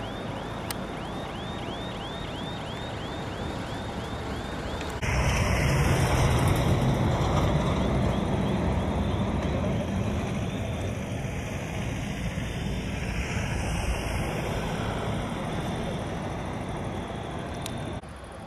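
Steady rumbling noise of a vehicle on the move, with a faint high chirping that repeats about three times a second in the first few seconds. The noise becomes abruptly louder and deeper about five seconds in, then drops back suddenly near the end.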